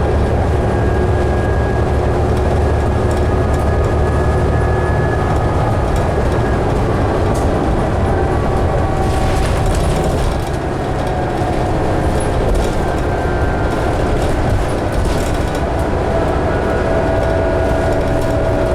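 Ride inside a 2011 New Flyer D60LFR articulated diesel bus under way: a steady engine and drivetrain drone with a faint whine that rises slowly in pitch near the end, and scattered short rattles around the middle.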